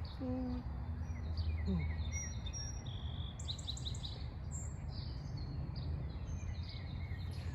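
Birds chirping and singing, short high calls and a quick trill of repeated notes about three and a half seconds in, over a steady low background rumble.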